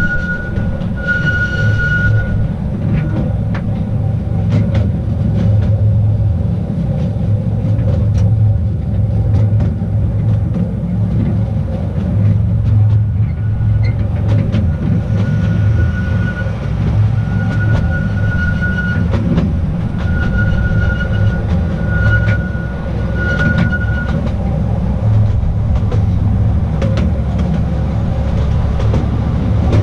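Small narrow-gauge train running: a steady low rumble of wheels on the track with scattered clicks, and a thin high wheel squeal that comes and goes, once near the start and several times in the second half.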